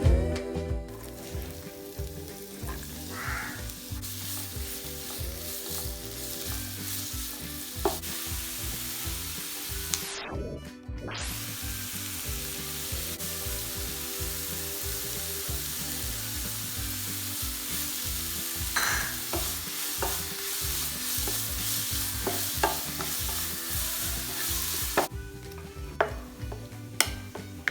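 Egg cutlets sizzling as they fry in hot oil in a pan, with a few light clicks of a utensil against the pan. The sizzle drops out briefly about ten seconds in.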